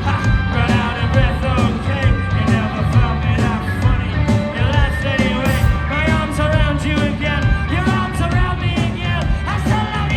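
Rock band playing live, with a lead vocal singing over the full band.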